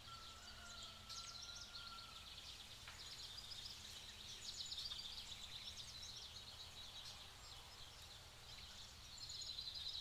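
Faint, rapid high chirping of small birds, with a steady low hum underneath.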